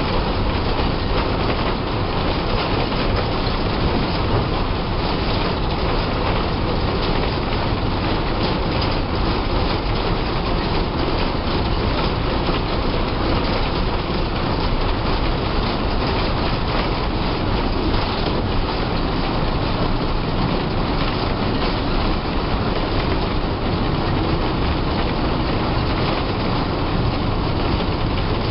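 Inside the driver's cabin of a moving TSRTC bus: the steady engine drone and road noise, with a constant rattling of the cabin and body panels.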